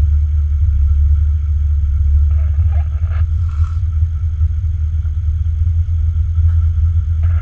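Jeep's engine idling, heard from inside the cab as a steady low rumble.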